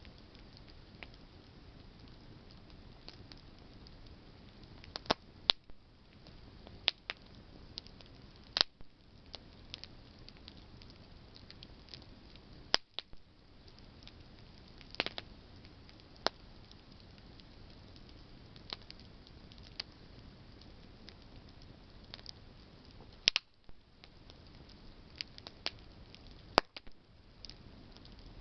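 Campfire of burning branches crackling, with irregular sharp pops every few seconds over a steady low hiss of the flames.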